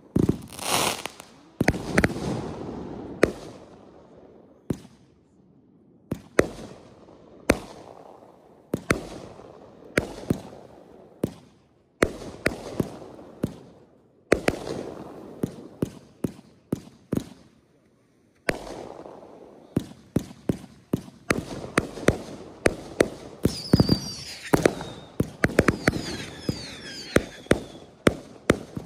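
Consumer aerial fireworks firing one after another: sharp bursting bangs, each with a short crackling tail, about one a second with brief lulls. In the last several seconds they come faster, several bangs a second.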